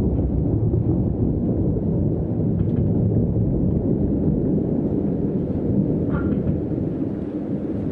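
Thunder rumbling and rolling on steadily, a deep low rumble that eases slightly near the end.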